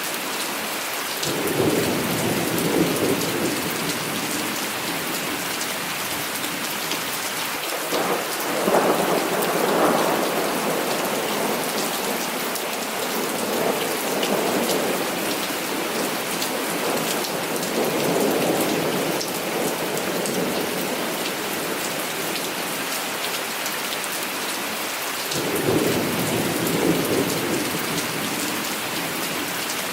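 Heavy rain falling with a steady hiss, and thunder rumbling in about five low swells of a few seconds each, the loudest about a third of the way in.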